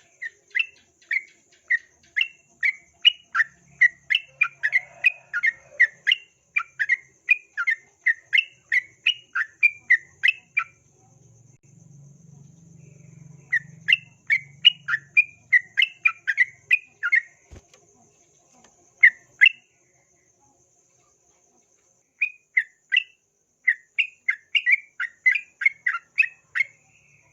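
Yellow-vented bulbul (trucukan) calling in long runs of quick, sharp chirping notes, about three a second, broken into several bouts with short pauses. A faint steady high insect trill runs underneath.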